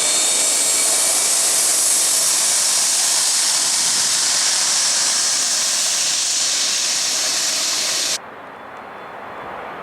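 Jet aircraft engines running loud, a hissing rush with a thin whine that fades in the first second, cutting off abruptly about eight seconds in to a much quieter background rumble.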